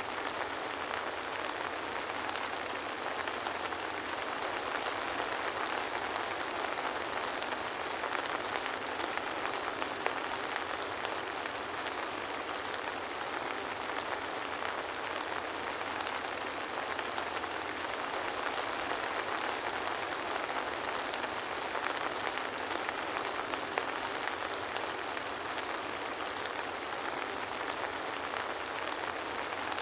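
Soft rain falling steadily, a continuous even patter of drops with scattered faint ticks and no thunder.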